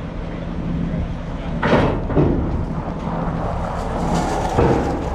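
Heavy machinery engine running steadily, with three loud knocks: two close together a little under two seconds in, and one more near the end.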